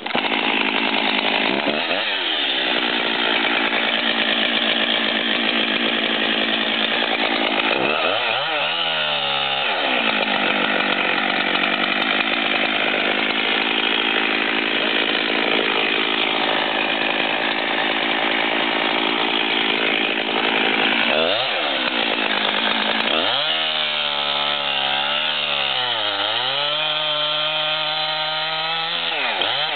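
Husqvarna two-stroke chainsaw running at full throttle while cutting the felling notch into a poplar trunk. The engine pitch drops and climbs back a few times as the cut changes.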